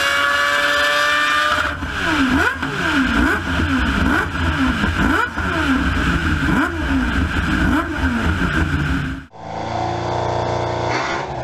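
Rotary racing engine running hard, its note climbing steadily at first and then dipping and recovering in quick repeated swings. About nine seconds in, the sound cuts to a different rotary engine recording.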